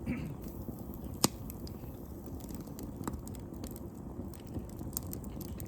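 Wood fire crackling: scattered sharp pops over a low steady rustle, the loudest pop about a second in.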